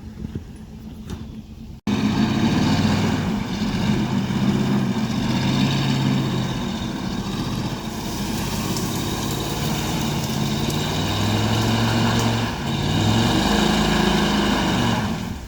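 Chevrolet Tahoe's engine running under load and revving up and down as it backs a heavy trailer across soft ground. It starts abruptly about two seconds in, much louder than before.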